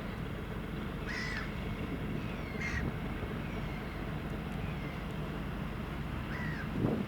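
A bird calls three times, in short calls, over the steady low drone of an engine.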